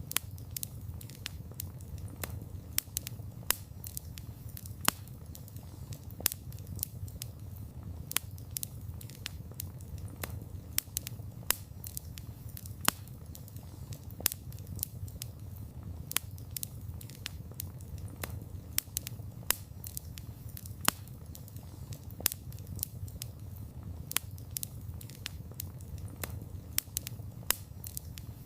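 Wood fire crackling: a steady low rumble of flames with frequent sharp pops and snaps at irregular intervals, a few standing out louder.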